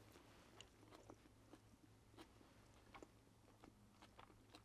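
Faint chewing of a mouthful of Big Mac: scattered small mouth clicks, about two a second and irregular, over a low steady hum.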